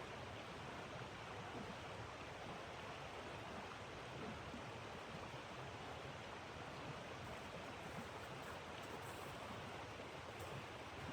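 Steady, even rushing hiss, with a few faint high ticks in the last few seconds.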